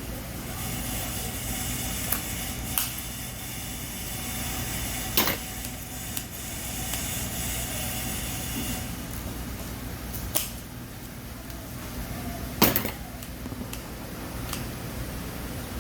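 Chicken roasting over a wood fire: a steady sizzling hiss over a low hum, with four sharp knocks scattered through, the loudest about two-thirds of the way in.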